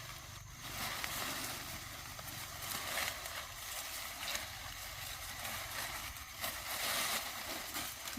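Dry corn stalks rustling and crackling as a tied bundle is handled and hoisted up, with louder bouts of rustling about three seconds in and again near the end.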